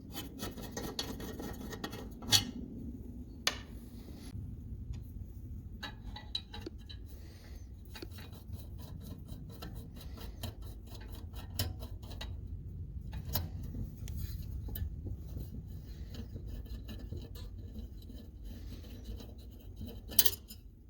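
Hand work on small parts: steady rubbing and scraping, broken by a few sharp clicks and knocks, the loudest near the end.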